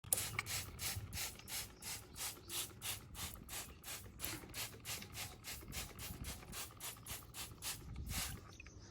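Car being washed with foam shampoo: quick, even strokes of hissing, rubbing sound, about three a second, that stop shortly before the end.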